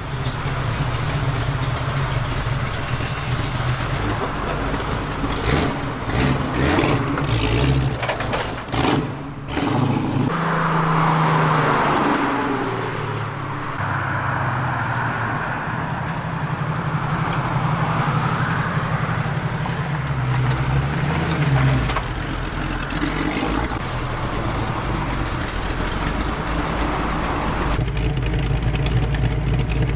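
Harley-Davidson V-twin motorcycle engine running, its pitch and level rising and falling a few times with the throttle.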